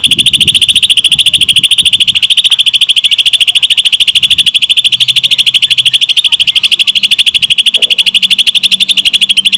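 Green leafbird (cucak ijo) singing a long, unbroken, rapid high-pitched trill of evenly spaced notes, the lovebird-like 'ngetrok' rattle that keepers prize in this bird.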